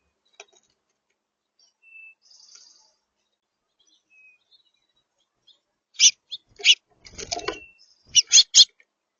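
Birds at a seed feeder: after a couple of faint short chirps, a run of sharp taps and scrapes in the last three seconds, with a brief scrabbling cluster in the middle of the run.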